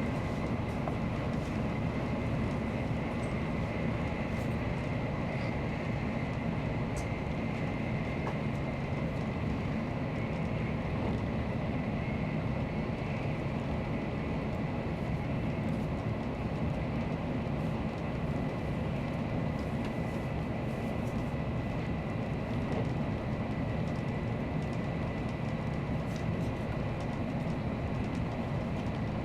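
Nozomi Shinkansen bullet train running steadily at speed: an even rumble and rush of noise with a faint steady high whine.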